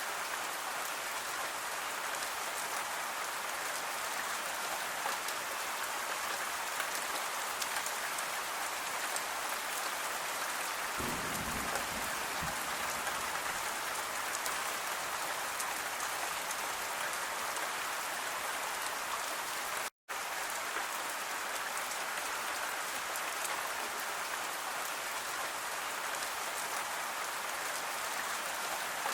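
Steady rain falling and pattering on surfaces. About eleven seconds in a brief low rumble rises under it, and about twenty seconds in the sound cuts out for an instant.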